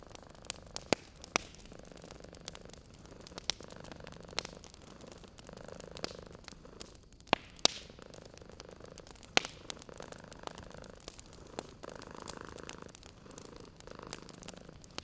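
Cat purring in slow swells, with many sharp, irregular pops and snaps of a crackling wood fire; the fire's pops are the loudest sounds.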